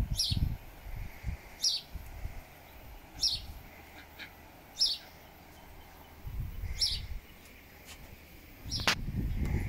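A small bird repeats a short, high-pitched falling chirp about every second and a half. Wind rumbles on the microphone now and then, and there is a sharp knock near the end.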